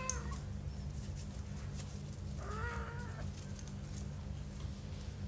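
A cat meows twice, one short call at the start and a longer one with a bending pitch about two and a half seconds in. A sharp click comes just after the first call, over a steady low hum.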